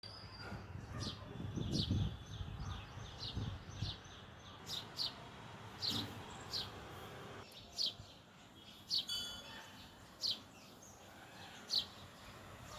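House sparrows chirping: a string of short, sharp chirps, some in quick pairs, repeated every half second to a second. There is a low rumble during the first few seconds.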